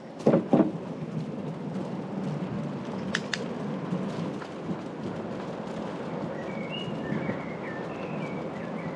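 Steady low rumble of bicycle tyres rolling on the road, after two thumps as the bike goes over bumps. Birds chirp faintly near the end.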